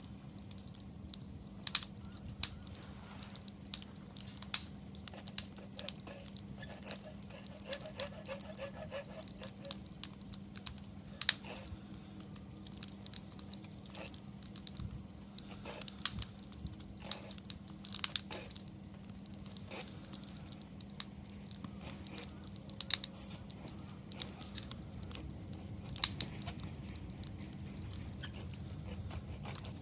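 Wood fire crackling: irregular sharp pops and snaps, several a second at times, with louder cracks now and then over a faint steady low hum.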